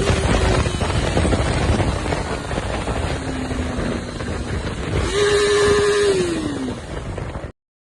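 Yamaha YZF R3's 321cc parallel-twin engine running at high revs under hard acceleration, with heavy wind rush on the microphone. About five seconds in the engine note holds high, then falls away as the revs drop. The sound cuts off suddenly near the end.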